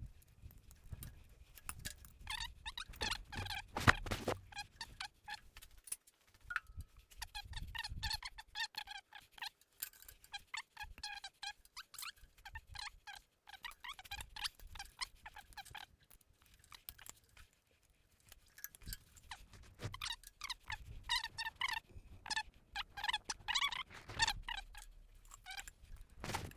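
Quick runs of sharp metallic clicking and rattling from hand tools working on the hydraulic quick-connect couplers, in bursts with short pauses.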